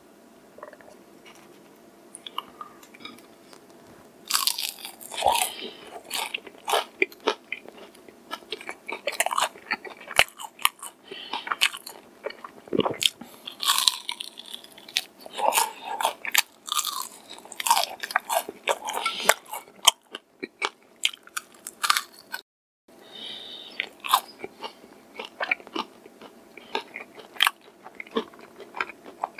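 Close-up crunching and chewing of crispy-coated fried chicken, with loud, irregular crackles of the breaking crust, starting about four seconds in.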